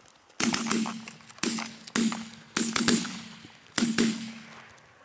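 A volley of shotgun blasts from several hunters firing at ducks, about seven shots fired in quick, uneven succession. Some shots come in close pairs, and each one rings out briefly.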